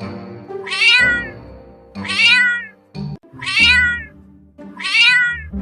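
Domestic cat meowing four times, about a second and a quarter apart, each meow falling in pitch, over background music.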